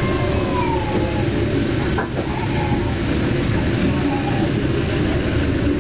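Passenger train carriage interior: a steady rumble of the moving train and its wheels on the track as it pulls out of a station. There is a single sharp knock about two seconds in.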